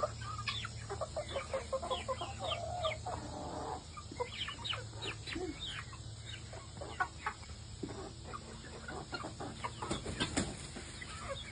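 Several chickens clucking, with many short calls close together throughout, over a steady low hum.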